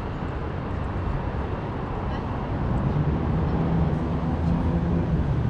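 City street noise heard from a moving bicycle: a steady low rumble of traffic and air on the microphone, getting louder about halfway through as a vehicle draws near, with faint voices of passers-by.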